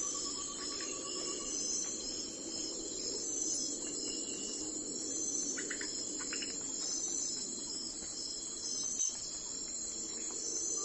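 A steady chorus of crickets, their high pulsing trills repeating evenly. A lower trill sounds during the first second or so, a few short chirps come around six seconds in, and a single click falls about nine seconds in.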